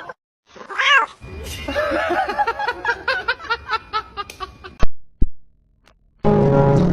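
A person laughing and snickering in quick short bursts, followed by two sharp clicks, then piano music starting near the end.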